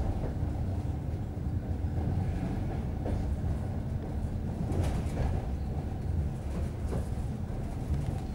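Suburban passenger train running along the track, heard from inside the carriage: a steady low rumble of wheels and running gear, with a few faint clicks.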